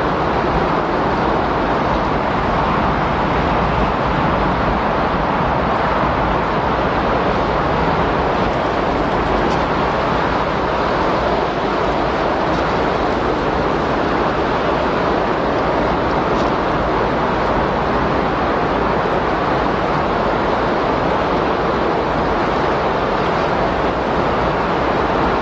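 Windstorm recording: a dense, steady rush of wind noise that holds an even level without letting up.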